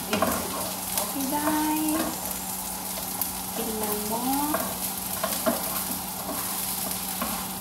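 Sliced onion, carrot and potato sizzling in a wok over a gas flame while being stirred with a wooden spatula, which taps against the pan a few times.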